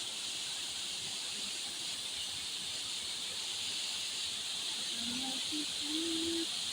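Steady high-pitched outdoor hiss, like an insect chorus or rushing water, with faint distant voices near the end.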